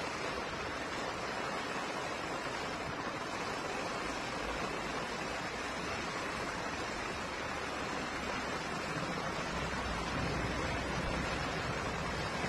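Steady rushing noise of water, a little louder in the last few seconds.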